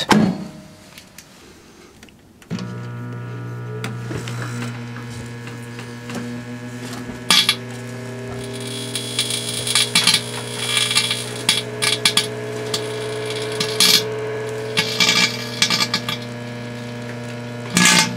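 Microwave oven starting about two and a half seconds in and running with a steady hum. Over it, sharp pops and then crackling from about eight seconds on, as the car headlight bulb inside arcs and burns.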